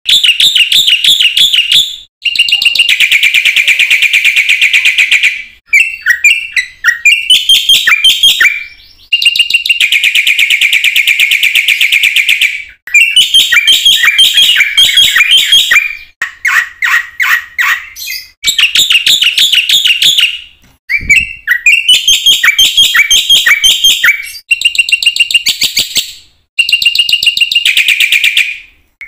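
Black-winged myna (white starling) singing vigorously: loud phrases of rapid, repeated chattering notes, each a few seconds long, broken by short pauses.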